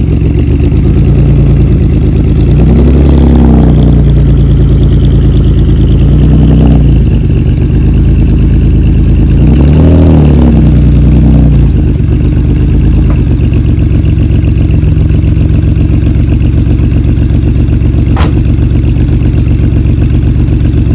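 Maserati Biturbo's twin-turbo V6 running, with the revs rising and falling about three times in the first half, then holding steady.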